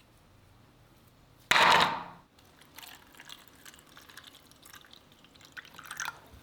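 A short, loud rush of liquid about a second and a half in that dies away within half a second, followed by faint scattered clicks and light scrapes.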